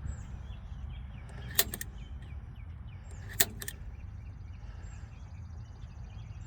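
Sharp metallic knocks of hand tools working on a truck's drive shaft: two distinct strikes about two seconds apart, the first followed by a quick lighter tick, over a steady low rumble.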